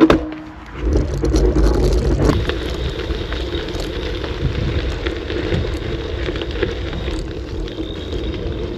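Riding a bicycle, with steady wind rush on the microphone over the rumble of the tyres on the road. There is a sharp knock at the start and another about two seconds in.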